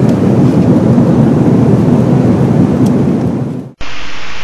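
Airbus A330 cabin noise in flight during turbulence: a loud, steady, deep rumble of engines and rushing air. About three and a half seconds in it fades away suddenly and a brighter hiss takes over briefly.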